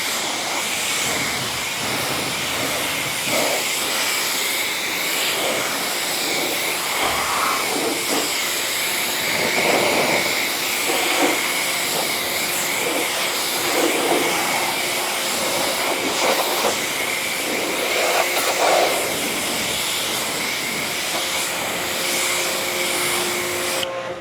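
Water jet spraying onto a car's paint and glass, rinsing off foamed car wash soap: a steady hiss that shifts a little as the spray moves, cutting off abruptly near the end.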